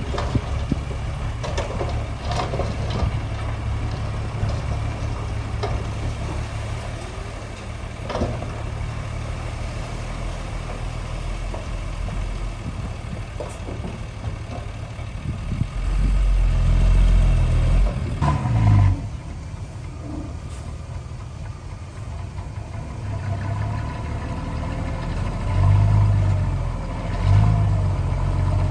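Heavy diesel engine of earth-moving machinery running steadily, with a few sharp knocks in the first ten seconds. It surges louder and deeper twice, about two-thirds of the way through and again near the end, as the machine takes on load.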